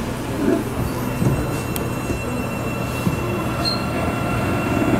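Seibu 9000 series electric commuter train heard from inside the car as it gets under way. There is a steady rumble of wheels and running gear with a low motor hum, and a faint, steady high whine from about two seconds in.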